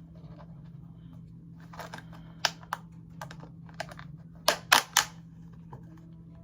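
Small plastic container's snap-on lid being pried at with the fingers: scattered clicks and taps, with a quick run of louder clicks a bit past halfway, as the stiff lid resists opening.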